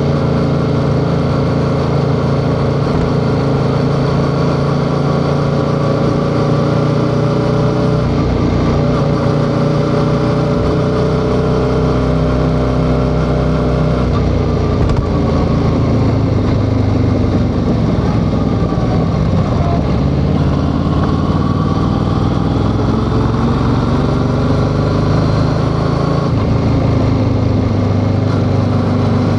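Yamaha XSR700's 689 cc parallel-twin engine running while the motorcycle is ridden. The engine note holds steady, shifts about a third of the way in, drops in pitch through the middle and climbs again near the end as the bike slows and speeds up.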